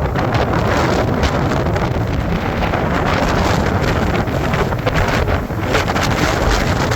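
Strong blizzard wind blowing across the microphone: a loud, steady rush of noise with a heavy low rumble.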